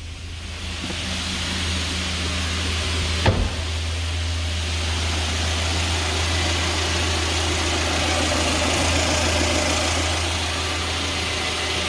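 UMZ-4216 2.7-litre four-cylinder petrol engine idling steadily while warm, with no hydraulic lifter tapping to be heard now that the faulty lifter has been replaced. One short thump comes about three seconds in.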